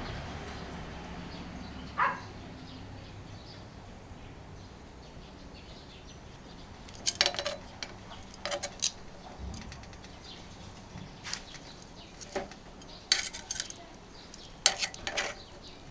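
Metal utensils clinking and tapping against an iron griddle plate in several short clusters, over a faint steady hiss.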